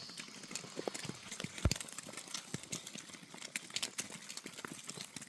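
Irregular hard clicks and knocks, several a second, with one sharper knock about one and a half seconds in.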